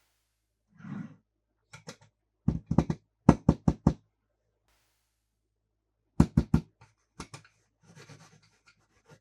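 Toys being handled on a hard surface: quick runs of sharp knocks, four or five at a time, with soft rustling between.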